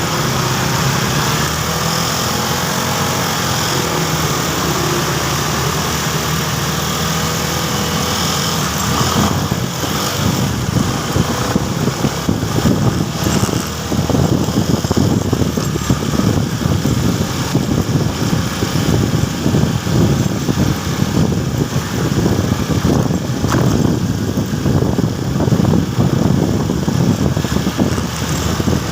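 Motorcycle engine running during a ride. Steady at first, the sound turns rougher and more uneven about nine seconds in.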